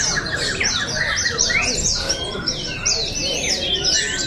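Caged white-eyes (pleci) singing a fast, continuous stream of high, downward-sweeping chirps that overlap one another.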